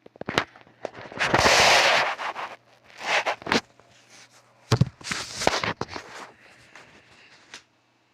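Small firecrackers going off: a series of sharp cracks and bangs, with loud hissing bursts in between, the longest lasting about a second.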